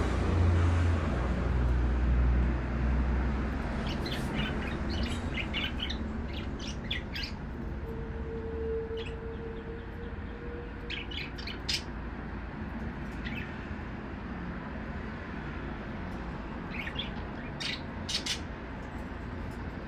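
Budgerigars chirping in short scattered bursts, over a low rumble that fades during the first few seconds.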